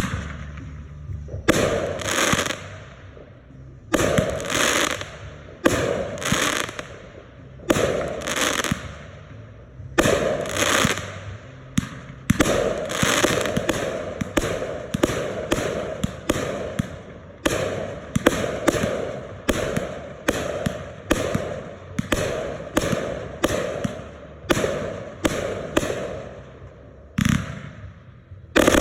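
Consumer fireworks going off in a steady string of sharp bangs, about one to two seconds apart and closer together in the second half, each bang trailing off.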